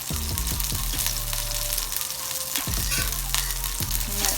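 Hot oil sizzling in a frying pan as taco shells fry, with scattered sharp pops of spitting oil.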